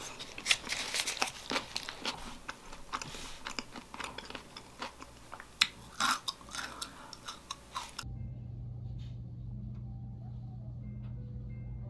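Close-up biting and chewing of a tortilla salad wrap, with crisp crinkling of its paper wrapper. About eight seconds in this gives way suddenly to a steady low hum.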